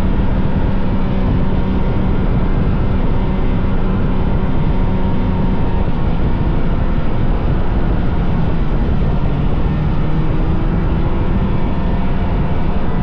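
Vintage snowmobile's two-stroke engine running steadily under way at an even speed.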